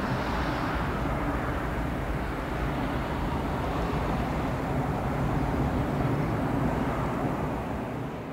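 Airliner engine noise: a steady rumble with hiss that holds at an even level.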